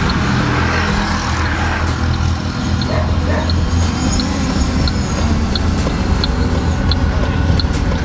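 Car engine idling, a steady low rumble heard from inside the cabin, with a short high beep repeating about every two-thirds of a second.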